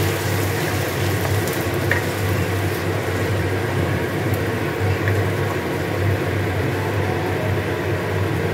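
Chopped onions, tomatoes and cashews sizzling in oil in a non-stick kadai as a wooden spatula stirs them, with a faint scrape or tap of the spatula now and then, over a steady low hum.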